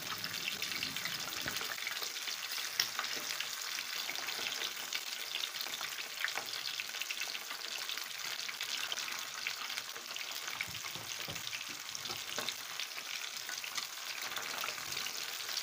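Pre-cooked chicken wings frying in hot oil: a steady sizzle full of fine crackles.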